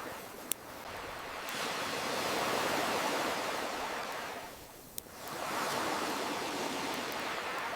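Ocean waves washing in and drawing back, two swells of rushing surf, one rising about a second and a half in and fading near five seconds, the next building right after. Two brief, sharp pops cut through, one about half a second in and one about five seconds in.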